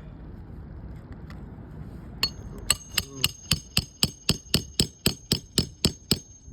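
Hand hammer driving a roofing nail through a new shingle: a quick, even run of about a dozen ringing blows, roughly four a second, starting about two seconds in.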